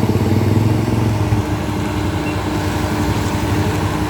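An engine running steadily at a low, even pace, a little louder for the first second and a half.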